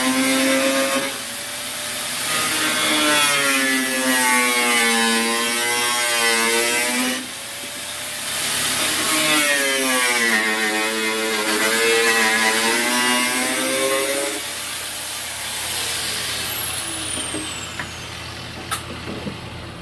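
A small motor running at changing speed, its pitch sagging and rising again in slow sweeps, then dying away near the end, followed by a few sharp clicks.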